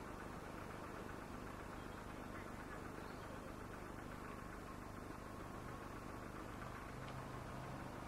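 Seaton Tramway electric tram running along the track, a faint steady rumble with a low motor hum.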